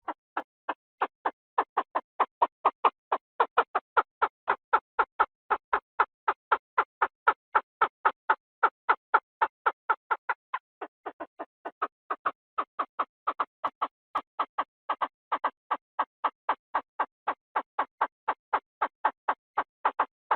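Chinese francolin call played as a trapping lure: a long, even run of short notes, about three a second, briefly softer about halfway through.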